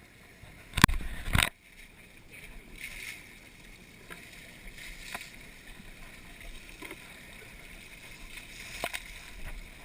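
Two loud knocks close together about a second in, then a faint steady background with scattered small clicks.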